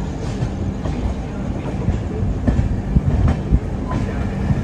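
Passenger train running slowly into a station, heard from the open door of a coach: a steady low rumble of wheels on rails, with a few sharp clanks over rail joints a little after the middle.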